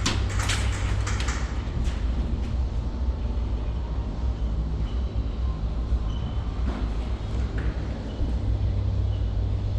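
A quick cluster of sharp airsoft gunshot clicks in the first two seconds, then a couple of isolated clicks later. All of it sits over a steady low rumble.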